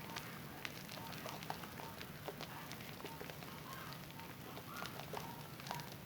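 Wet Zest bar soap being lathered, with a steady run of small wet crackles, squelches and bubble pops.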